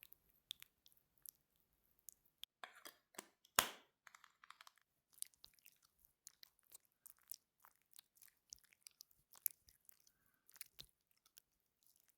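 Close-miked makeup and skincare products being handled: faint, scattered small clicks, taps and crackles, with one sharper tap about three and a half seconds in.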